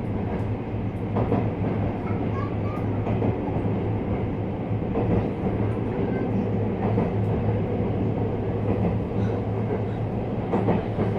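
Running noise inside a JR West 321 series electric multiple unit: a steady rumble with a low hum and occasional short knocks of the wheels on the rails.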